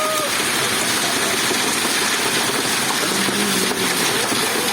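Steady rushing noise of a storm, wind and rain beating on the shelter.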